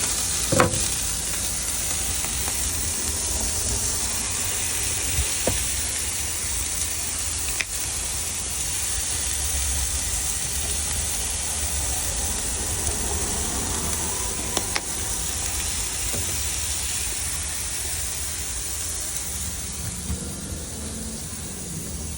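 Food sizzling steadily on a hot griddle, with a constant low hum underneath and a few brief sharp clicks.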